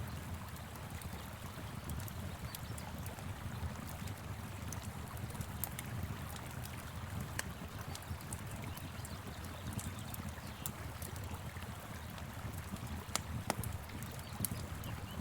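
Wood fire crackling with scattered sharp pops over the steady rush of a flowing river.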